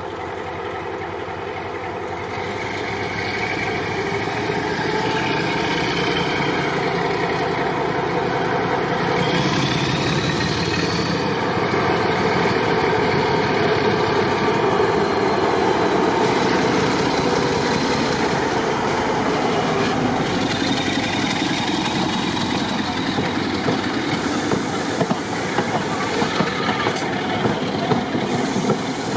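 Diesel-hauled train running, growing louder over the first dozen seconds. In the last few seconds there is a run of sharp clicks as the wheels pass over rail joints.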